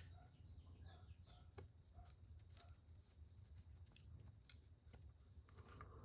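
Faint, scattered clicks and small squeaks of hands working on small plastic and metal parts of an RC car, over a low steady hum.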